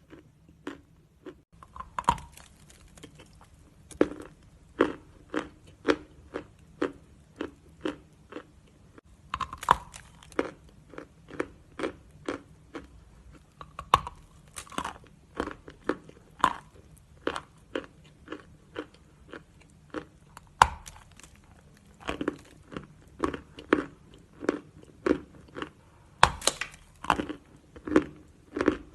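Natural chalk being bitten and chewed close to the microphone: a steady run of crisp crunches, about one to two a second, with a louder bite every few seconds.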